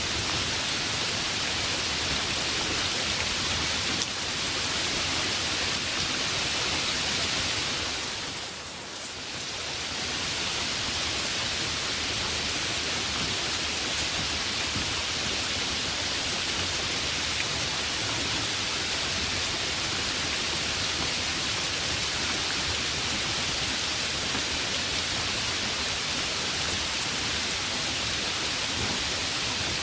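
Heavy rain falling steadily as a dense, even hiss, strongest in the upper range; it briefly softens about nine seconds in, then comes back at full strength.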